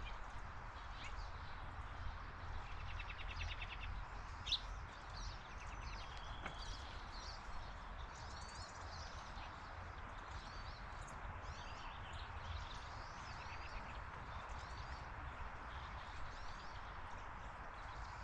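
Songbirds chirping and calling in short, varied notes, with a quick trill about three seconds in, over a steady hiss and low rumble of background noise.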